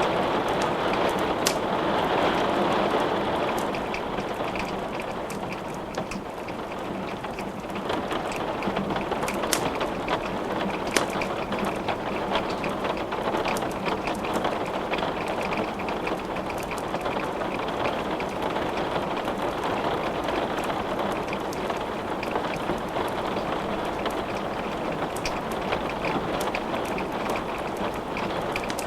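Steady rain falling, with scattered sharp crackles of a wood fire burning in a fireplace. The rain eases slightly a few seconds in, then holds steady.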